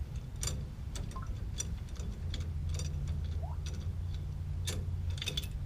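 Scattered light clicks and ticks from hand tools and metal parts being handled at a truck wheel hub during a wheel-stud replacement, over a low steady hum.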